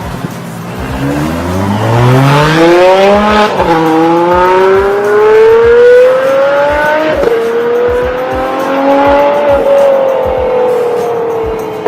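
Ferrari 599 GTO's V12 accelerating hard. Its pitch climbs steeply, drops sharply at an upshift a few seconds in, then keeps climbing more slowly through another brief shift before easing off near the end.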